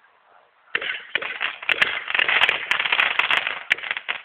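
Firework crackling: a dense run of rapid small pops and snaps that starts just under a second in and keeps going.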